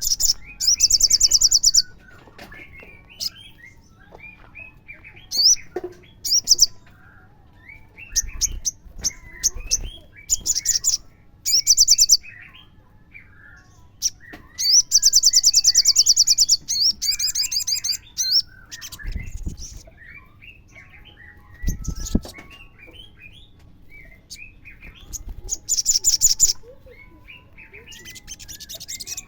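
Olive-backed sunbird song: loud, very fast, high-pitched trills of a second or more, repeated several times, with softer twittering chirps between them. A couple of dull low thumps come near the middle.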